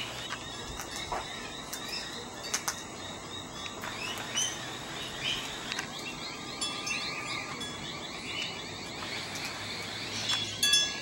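Birds chirping and twittering, many short quick calls overlapping throughout, with a few sharp clicks.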